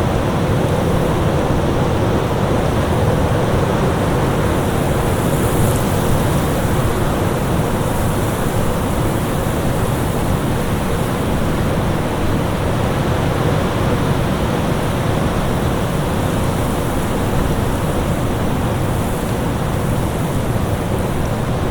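Winter storm wind: a steady, dense rush of noise, heaviest in the low end, with a faint steady tone running beneath it.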